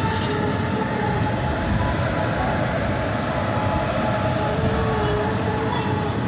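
Steady rumble and rush of a passenger train running, heard from inside the carriage.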